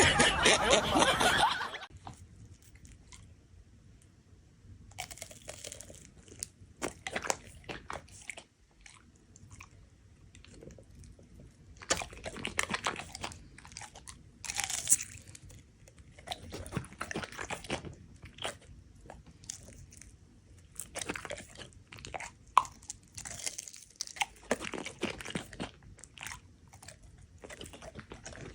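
Crunchy chewing close to the microphone, something hard being bitten and crunched in repeated bursts of a second or two with short pauses between.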